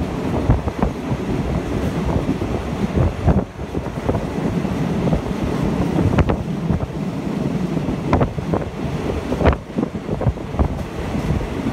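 Wind buffeting the microphone at an open window of a moving passenger train, over the train's steady running rumble, with a few sharp knocks from the running gear.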